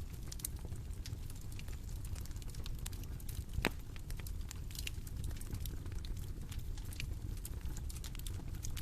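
Bonfire crackling: a steady low rumble of burning with a constant scatter of small snaps and pops, and one louder pop a little before halfway.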